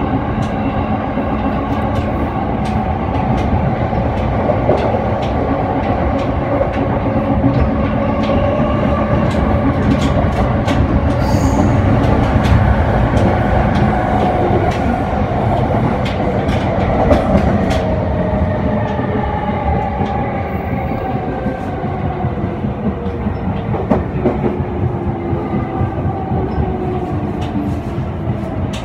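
Train running on rails: a steady rumble with clicks of wheels over rail joints, and a whining tone that falls in pitch over the second half as the train slows.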